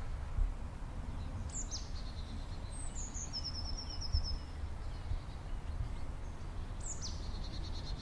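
Small birds calling over a low outdoor background rumble. A high whistle slurs sharply downward twice, each followed by short buzzy notes, and a fast trill of repeated notes comes in the middle, with faint short chips throughout.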